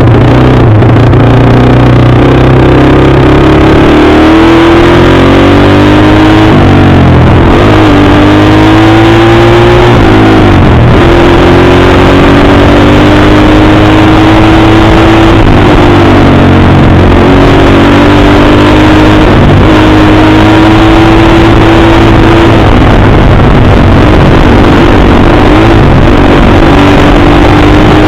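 Dirt bike engine running hard under acceleration: its pitch climbs and drops back sharply at each of several gear shifts. Very loud throughout.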